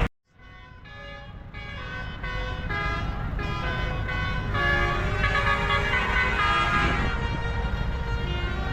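A tune of horn-like pitched notes, each held for about a third to half a second, over the low rumble of tractor engines. It fades in over the first couple of seconds and then plays on steadily.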